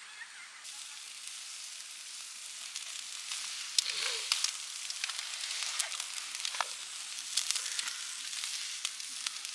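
Meat sizzling on a UNIFLAME Unicera TG-III grill: a steady hiss that starts about half a second in and grows louder, with frequent sharp pops of spitting fat.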